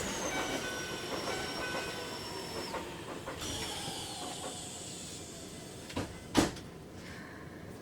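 Keikyu 1000 series electric train with a Mitsubishi IGBT inverter, its motor whine falling in pitch as the train slows, the whole sound growing steadily quieter. Two sharp knocks come close together near the end.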